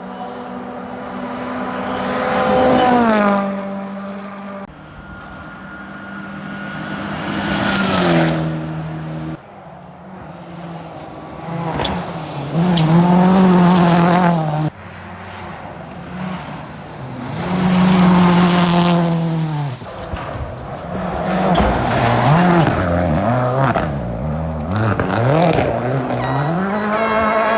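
Rally cars at full throttle, several passes cut one after another: engine notes drop in pitch as the first cars go by, later cars rev hard, and near the end the revs swing up and down repeatedly through gear changes and lifts.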